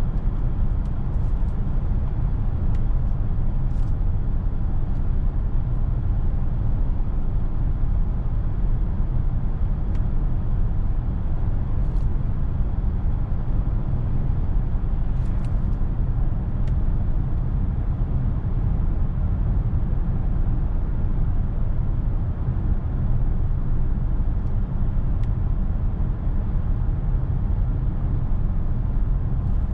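Steady low road and tyre rumble inside the cabin of a DS 9 E-Tense 225 plug-in hybrid on the move, with a few faint clicks.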